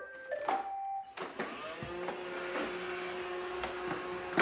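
A robot vacuum plays a short tune of electronic beeps, then its motors start and run with a steady hum. A sharp knock near the end, the loudest sound here.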